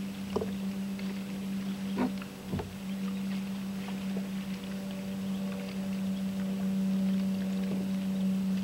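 A steady low hum runs throughout, broken by a few short knocks of a paddle against a kayak hull, about a second apart near the start and once more near the end.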